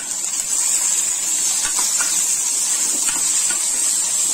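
Shallots, garlic, dried red chillies and chopped tomato sautéing in hot oil in a stainless steel kadai, a steady high sizzle. A steel ladle stirs them, clinking lightly on the pan a few times.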